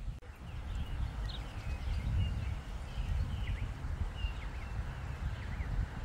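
Birds chirping, many short scattered calls, over a steady low rumble.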